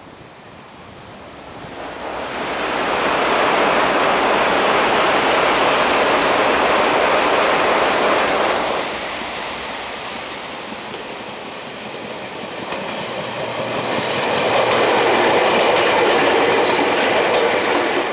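Ohmi Railway 700-series two-car electric train (ex-Seibu 401 series) running past on the track, with wheels clacking over rail joints. The rail noise swells after a couple of seconds, eases off about halfway, and swells again near the end as the train passes close.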